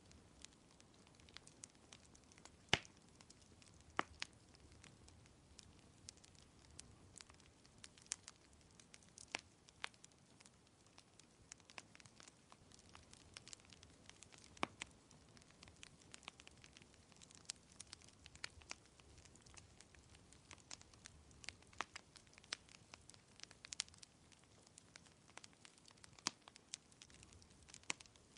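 Wood fire crackling: irregular sharp pops and snaps from burning logs, a few of them louder, over a faint steady hiss.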